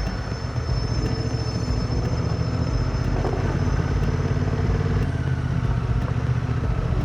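Motorcycle engine running steadily while riding, a low, even engine hum.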